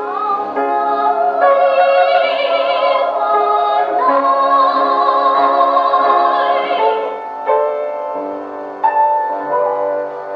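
Operatic singing with piano accompaniment: classically trained voices hold long notes with wide vibrato over sustained piano chords.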